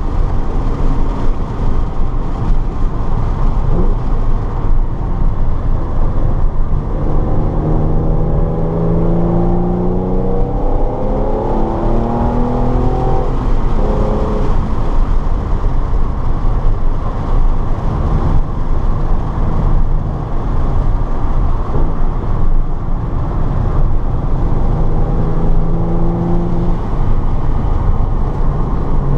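Car driven hard on a race track: a steady loud rush of wind and road noise under the engine note. The engine note climbs again and again between about a quarter and halfway through, and holds steadier near the end.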